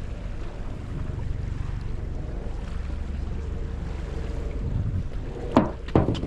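Wind rumbling on the microphone by the lakeshore, with a few loud knocks near the end.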